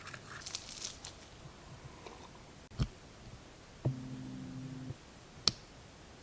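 Makeup items being handled: light clicks and a soft knock, then a low hum lasting about a second, and one sharp click near the end, such as a compact or cap snapping shut.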